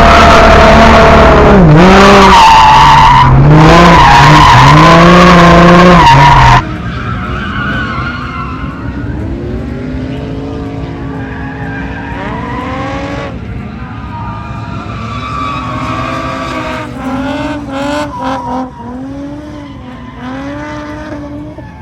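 Car engine revving hard with tyres skidding as a car drifts. For the first six or so seconds it is very loud and distorted; then it cuts abruptly to a quieter engine still rising and falling in revs.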